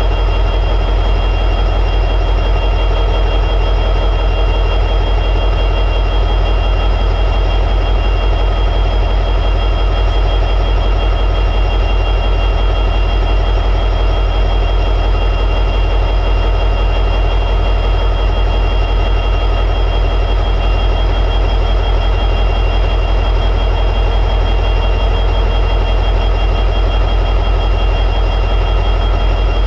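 EMD 710G3B two-stroke diesel prime mover of an SD60E locomotive running steadily at high idle: an even, low, rapidly pulsing drone with thin steady high-pitched tones over it.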